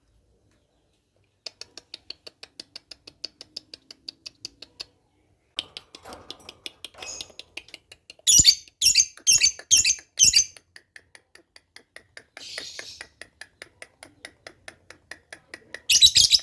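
Pet lovebird calling: a quick run of five loud, shrill chirps about eight seconds in, a softer one later and another at the end. A steady rapid ticking runs underneath.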